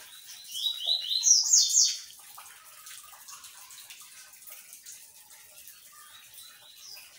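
Small bird singing a quick run of short, high chirps that step upward in pitch, lasting about a second and a half. One more faint chirp comes near the end.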